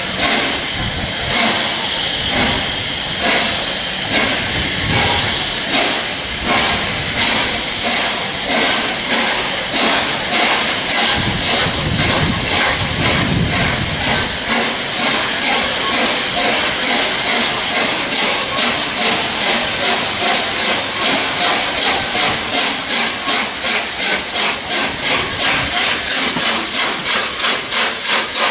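LNER Peppercorn A1 three-cylinder steam locomotive 60163 Tornado pulling away, its exhaust chuffs loud and rhythmic over steady steam hiss, the beats quickening from about one a second to two or three a second as it gathers speed.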